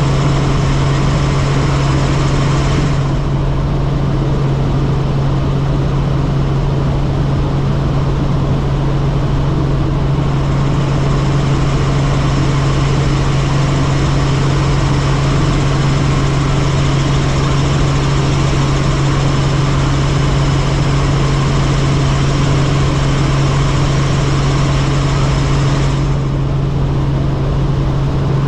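Helicopter in flight: a steady, loud drone of engine and rotor with a constant low hum underneath.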